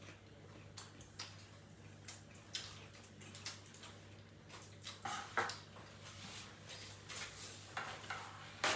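Close-up eating sounds: quiet chewing with scattered light clicks and clinks of cutlery and dishes, a little louder about five seconds in and again near the end, over a faint steady hum.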